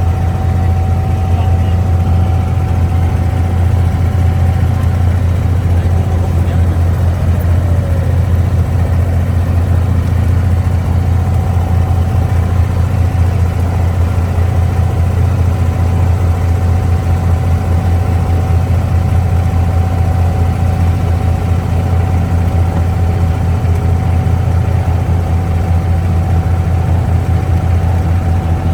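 Diesel engine of an abra water taxi running steadily under way, heard loud from on board: an unbroken low drone with a thin steady whine above it.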